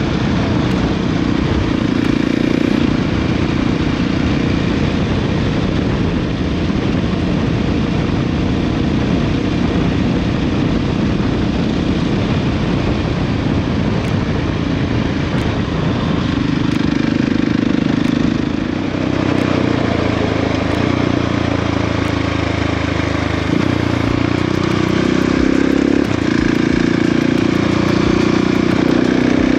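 Motorcycle engine running while riding, with heavy wind rush; the engine note shifts a few times as speed changes.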